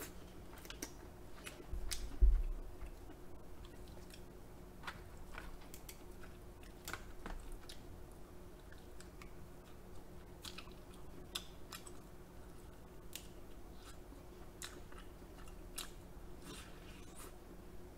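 Close-miked chewing and biting of king crab leg meat, with scattered small wet clicks and smacks. A single low thump about two seconds in.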